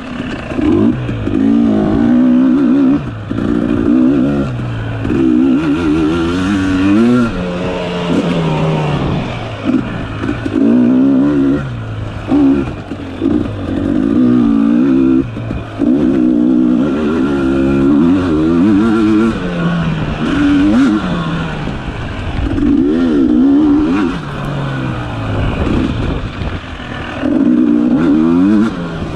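Dirt bike engine revving hard and backing off over and over, its pitch climbing with each burst of throttle and dropping as it shifts or eases off.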